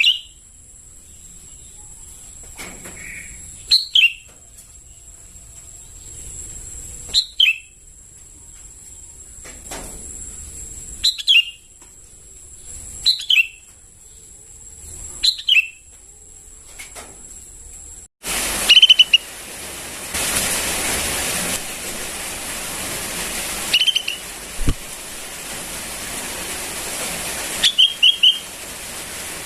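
Young sooty-headed bulbul calling: short, downward-sliding chirps, singly or in quick pairs, about every two seconds. Over the first part a steady high whine runs behind them; a little past halfway it stops and a steady hiss comes in behind the chirps.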